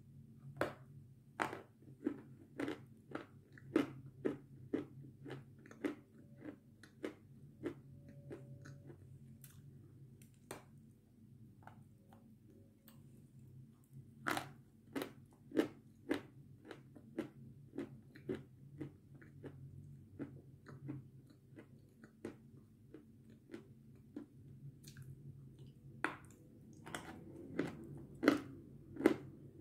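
Someone biting and chewing a hard, crunchy white block: crisp crunches come in quick runs of about one to two a second, near the start, around the middle and near the end, with quieter chewing between.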